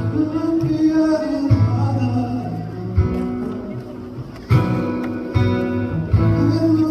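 Live band music: acoustic guitar strumming over a strong bass line, with a man singing. It thins to a quieter passage, then the full band comes back in about four and a half seconds in.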